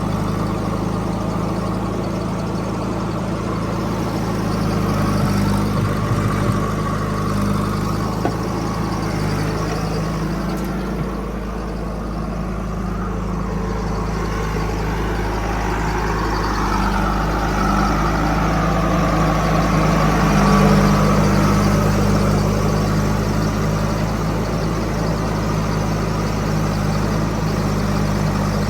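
Heavy diesel machine engine running steadily, swelling a little louder about two-thirds of the way through.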